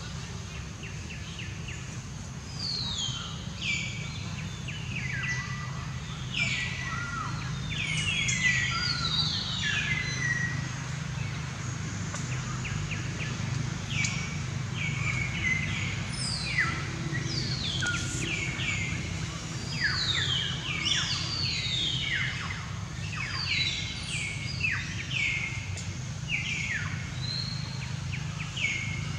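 Forest birds calling: many short whistled notes, each falling in pitch, coming thick and overlapping from about two seconds in, over a steady low drone.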